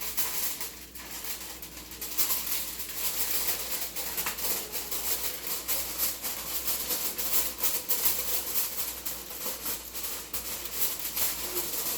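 Aluminium foil crinkling as it is pressed down to cover a pot, a rapid crackle that gets busier after about two seconds.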